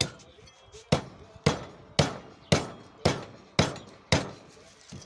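Axe strokes hewing a rowan burl blank for a shoe last: eight sharp chops, about two a second, each with a short ring.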